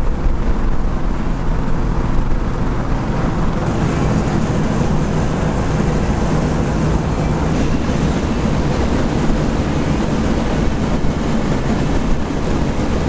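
Classic muscle car driving at highway speed: a steady engine drone under road and wind noise. About four seconds in, the engine tone gives way to a rougher rush of wind and road noise.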